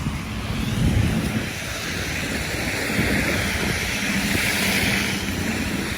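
Wind buffeting the microphone in a snowstorm: a gusty low rumble under a steady hiss that swells about four to five seconds in.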